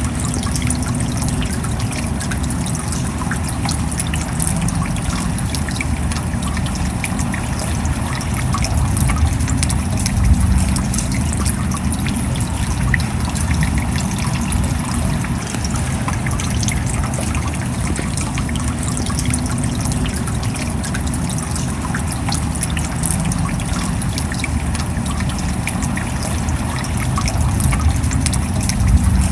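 Steady rain: a dense patter of small drop ticks over a constant low wash of water.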